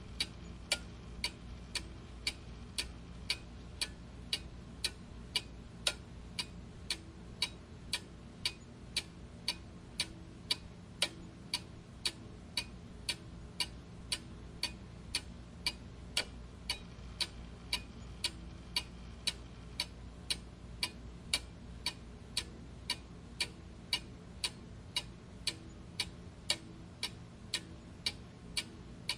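Mechanical clock ticking steadily, about two even tick-tocks a second, over a faint low hum.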